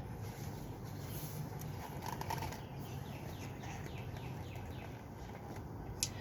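Backyard ambience: a steady low hum, with a faint bird trill of quick falling notes about halfway through.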